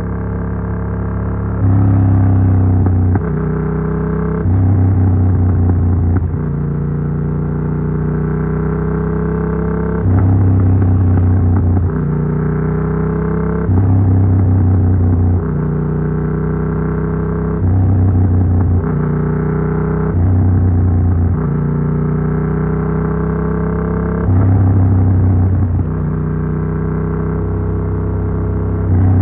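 Yamaha MT-07's 689 cc parallel-twin through an Arrow Works full exhaust with dB killer, under way. The engine note climbs in pitch again and again, with sudden changes every two to four seconds as the throttle and gears change. It is heard from a phone in the rider's backpack.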